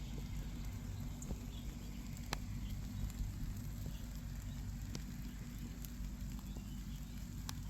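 Low, steady wind rumble on the microphone, with scattered faint clicks and crackles and a few faint, short bird chirps in the distance.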